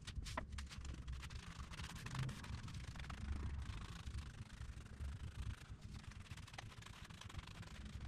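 Disposable bristle brush spreading contact cement over the backing of marine carpet: a faint, steady scratchy brushing with small clicks, over a low rumble.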